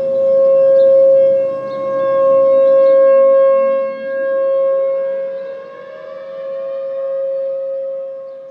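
Rotating outdoor warning sirens sounding a steady alert tone, dominated by an American Signal T-128. The sound swells and fades every couple of seconds as the sirens turn. About halfway through, a second siren's pitch rises to join the tone.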